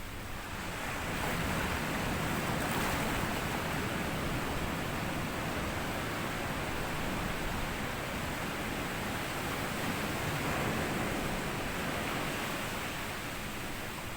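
Sea waves washing over a sandy beach: a long rushing wash that swells about a second in and eases off slightly near the end.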